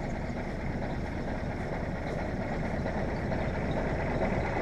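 Mack B61 dump truck's engine idling steadily while it builds up air pressure for the brakes.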